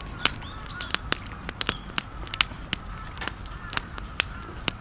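Irregular sharp pops and crackles, several a second, from meat cooking on a campfire grill, with faint bird calls behind.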